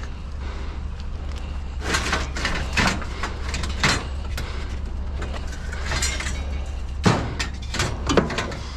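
Irregular knocks and clatters of scrap metal being shifted and settled in a loaded trailer, about half a dozen over the stretch, the sharpest near the end, over a steady low hum.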